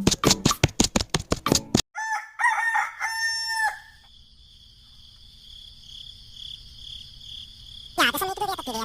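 Rooster crowing once about two seconds in, right after music cuts off, followed by the steady high chirring of crickets.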